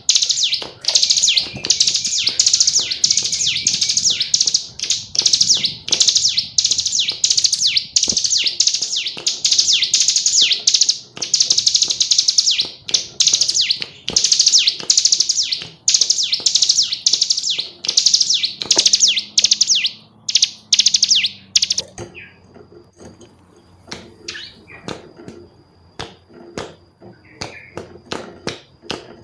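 Female ciblek gunung, a prinia, calling in a fast, unbroken chatter of high, quickly repeated notes that stops about 22 seconds in. The rest is quieter, with scattered faint clicks and taps.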